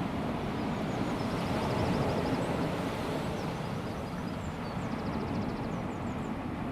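Calm sea: small waves washing steadily onto a sandy beach, with a low wind rumble on the microphone. Faint high chirps come and go twice.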